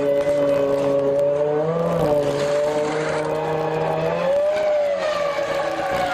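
Formula One car's V10 engine running at steady high revs, its pitch dipping and rising briefly about two seconds in and again around four and a half seconds in.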